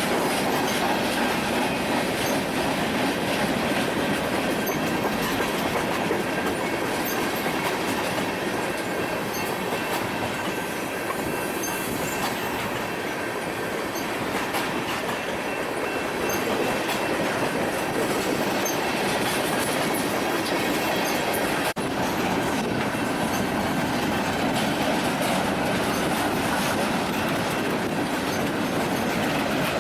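Union Pacific freight cars rolling steadily past, with a continuous clatter of wheels on rail and a faint, steady high wheel squeal.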